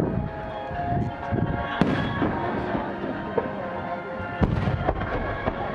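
Aerial fireworks bursting, with sharp bangs about two seconds in and again after four and a half seconds, and smaller cracks between them. Music with held tones plays throughout.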